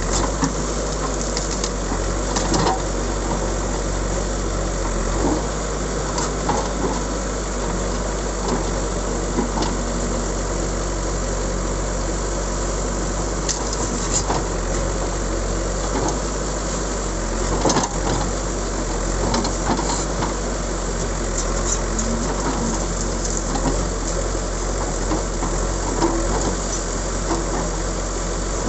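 JCB backhoe loader's diesel engine running steadily, with scattered short knocks and clatters throughout.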